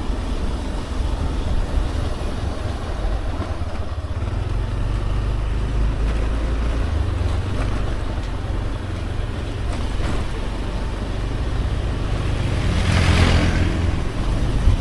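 Motorbike running along a road, with a steady low rumble of engine and wind buffeting the microphone; a louder, brighter swell of noise comes near the end.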